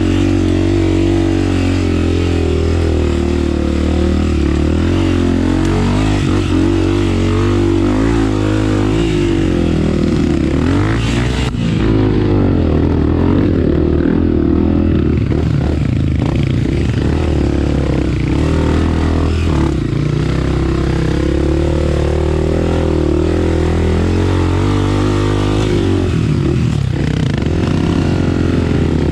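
Honda CRF250F's single-cylinder four-stroke engine running under way on a trail, its pitch rising and falling with the throttle and dropping off briefly about twelve seconds in and again near the end, heard close from the rider's helmet.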